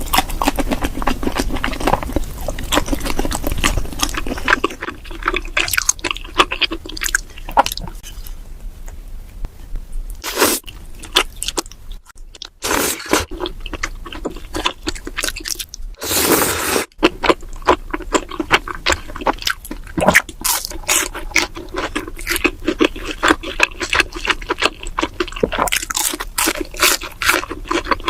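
Close-miked mukbang eating sounds: chewing chewy tteokbokki rice cakes in a creamy, cheesy sauce, with many quick wet mouth clicks and smacks. There is a louder noisy rush lasting about a second roughly two-thirds of the way through.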